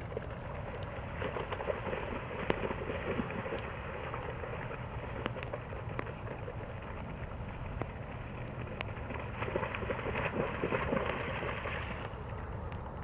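Steady rain falling on marsh water, with scattered sharp drop ticks. Two stretches of louder splashing, about a second in and again around ten seconds in, as greyhounds gallop through the shallow water.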